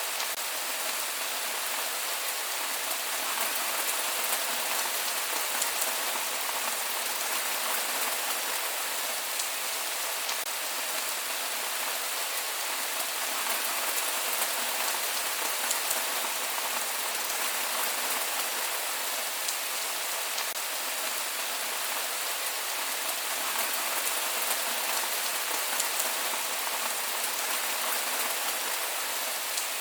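Steady rain falling, with no thunder: an even hiss of rain with faint patter of individual drops.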